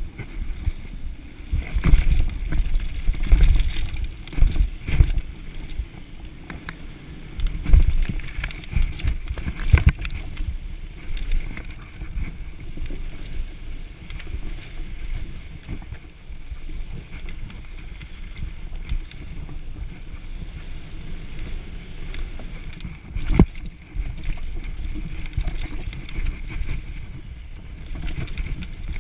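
Downhill mountain bike riding over a rough trail: tyres rumbling on dirt with sharp knocks and rattles from the bike over bumps, and wind on the microphone. It is bumpiest in the first third, with one hard knock near the end.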